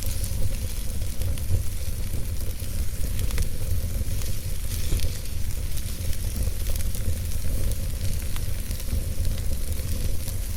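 Wood logs burning in a fireplace: a steady low rumble of flame with a hiss and scattered sharp crackles and pops.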